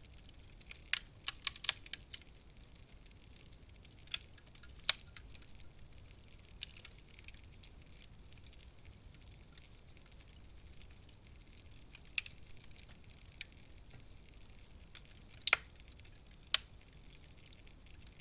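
Wood fire crackling in a fireplace: sharp pops and snaps over a faint steady hiss, with a quick run of pops about a second in, then scattered single pops.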